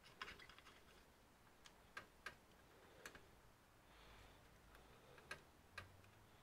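Faint, sharp clicks and light taps of hands and tools working on an all-in-one computer's plastic casing: a quick flurry at the start, then single clicks every second or so.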